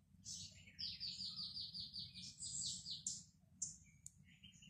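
A small songbird chirping, with a fast trill of about a dozen short notes about a second in, then separate high chirps, over a faint low hum.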